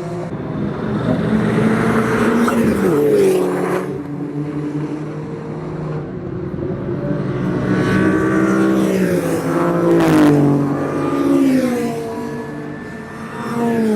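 Race car engine running hard, its revs climbing and dropping in steps through gear changes, with one sharp crack about ten seconds in.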